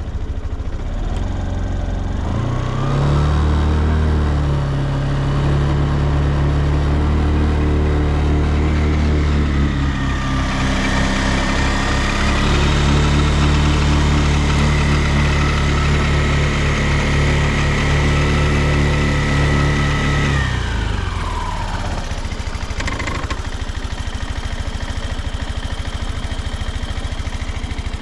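Suzuki Address V125S scooter's single-cylinder four-stroke engine idling, then revved up and held at a higher speed twice, with a short dip in between, before dropping back to idle. It runs with no abnormal noise.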